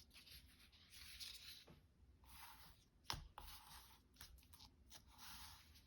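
Faint handling of paper sheets: soft rustles and small clicks, with one sharper tap about three seconds in.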